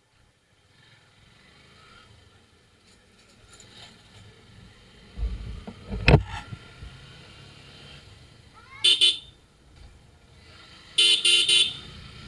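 Vehicle horns honking in street traffic: one short toot about nine seconds in and a longer, stuttering blast near the end. Earlier, about five to six seconds in, a loud low rumble peaks in a sharp knock.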